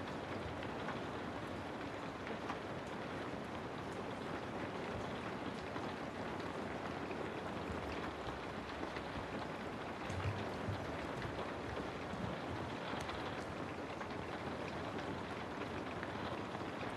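Steady rain falling, an even wash of patter used as background white noise.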